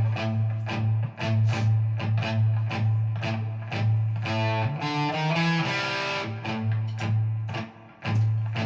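Guitar picking a quick riff on the A and D strings over a steady drone of the open A string. About five seconds in, the notes slide through a short run before the drone comes back.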